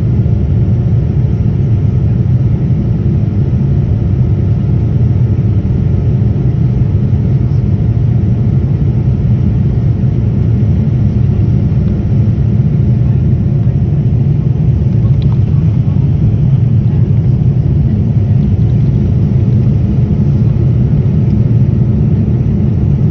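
Steady low rumble of a Boeing 787-9 airliner heard from inside the passenger cabin: engine and airflow noise, unchanging throughout.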